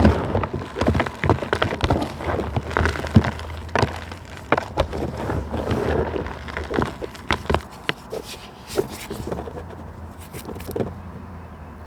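Dry plant material being crushed: a dense run of irregular crackles, crunches and snaps, thinning out toward the end.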